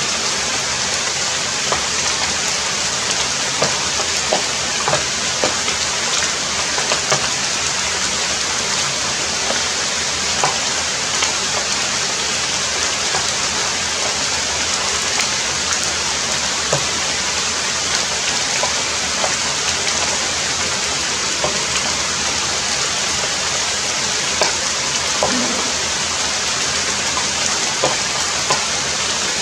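Heavy rain falling steadily, a dense even hiss with scattered individual drops standing out as brief ticks.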